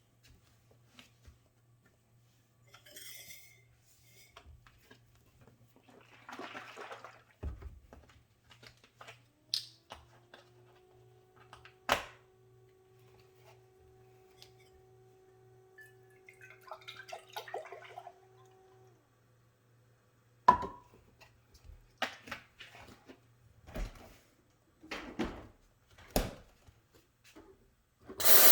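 Clatter of espresso-making gear being handled, with scattered clicks and knocks and a low pulsing hum. About midway a small electric motor spins up, its pitch rising, and runs steadily for about seven seconds; a series of sharp knocks follows, and a loud rushing noise starts right at the end.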